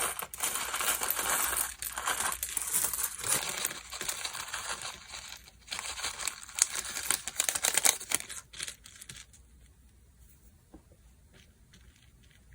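Slime being squeezed and pressed by hand, giving dense crackling, crinkling sounds for about nine seconds, then only faint scattered small pops.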